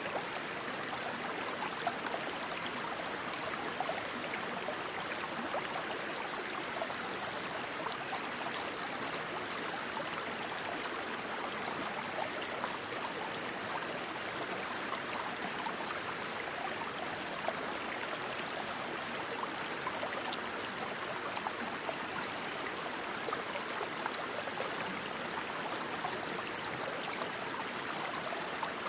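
Rushing water flowing steadily, like a stream, with short high chirps scattered throughout and a quick high trill about eleven seconds in.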